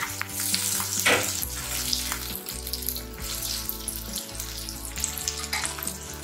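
Potato cubes, green peas, onion and chopped tomato sizzling and crackling in oil in a nonstick pan as they sauté, with one louder scrape about a second in.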